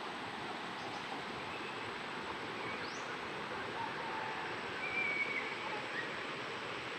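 Steady outdoor background hiss with a few faint bird calls, short whistles around the middle, the clearest about five seconds in.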